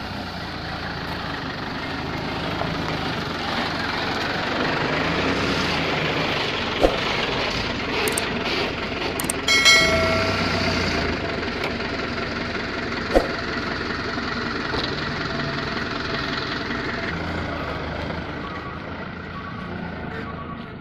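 Dump truck running while its load of gravel and sand pours out, a rushing rumble that swells and slowly eases off. A brief high squeal comes about ten seconds in, and there are two sharp knocks.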